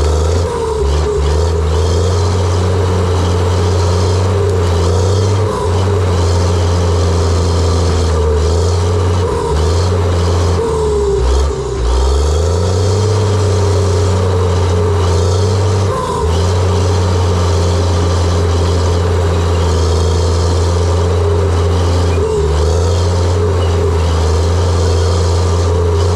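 John Deere 700J-II crawler dozer's diesel engine running steadily under load, with brief dips every few seconds as the load changes.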